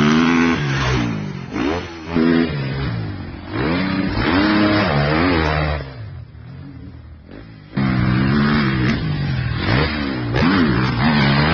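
Motocross bike engine revving hard again and again, its pitch rising and falling with each twist of the throttle. It drops back to a lower, quieter running for a couple of seconds past the middle, then comes back in suddenly.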